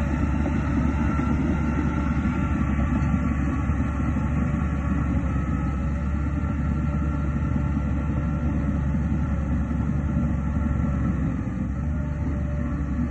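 Heavy diesel earthmoving machinery running steadily with a continuous low rumble; the level dips slightly about eleven seconds in.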